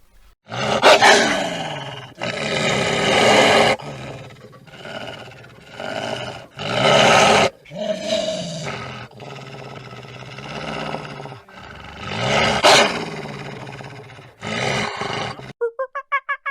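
A large animal roaring and growling in a series of loud calls, each one to two seconds long and cut off abruptly.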